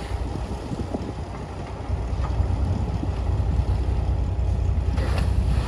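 Diesel engine of heavy earthmoving machinery running with a deep, steady rumble that grows louder about two seconds in.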